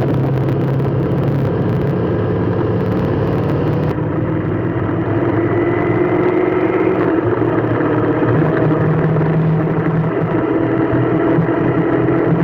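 Motor vehicle engine running steadily, its hum rising slowly in pitch a few seconds in.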